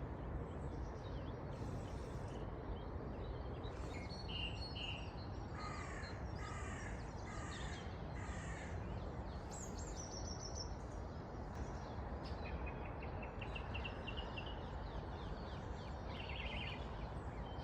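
A crow cawing four times in quick succession, about a second apart, with smaller birds chirping on and off over a steady outdoor background rumble.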